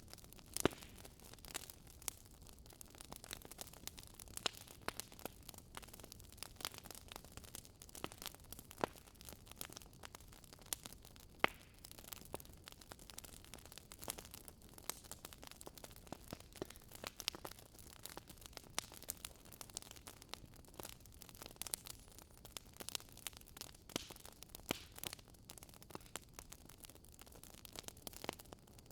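Campfire crackling: frequent sharp pops and snaps of burning wood over a soft low rumble, with two louder pops, one near the start and one about a third of the way through.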